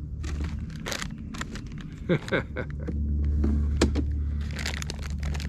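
Plastic snack bag crinkling and rustling as it is handled, a series of short crackles and clicks over a steady low rumble.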